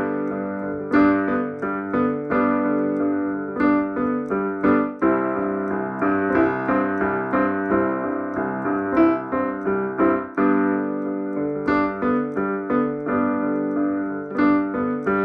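Solo piano playing an instrumental passage of a pop song: repeated struck chords with sustained notes, no voice.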